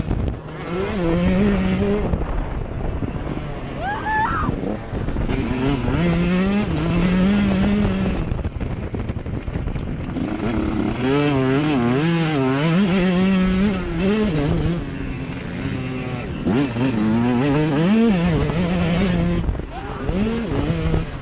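Motocross bike engines revving hard, the pitch climbing and dropping over and over with throttle and gear changes, the sound changing abruptly several times.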